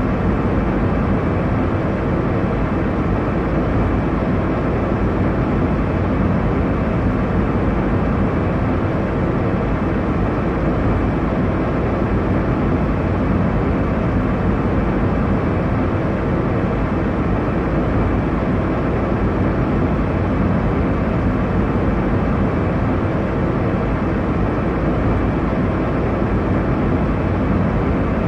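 Airliner cabin noise: a steady, unchanging roar of engines and airflow, heaviest in the low end.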